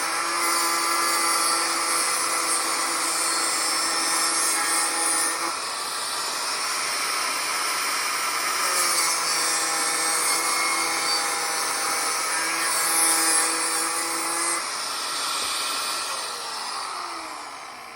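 Power tool cutting through a steel exhaust pipe, its motor whining steadily with a grinding hiss. The whine dips briefly about six seconds in, picks up again, then winds down with a falling pitch near the end as the cut is finished.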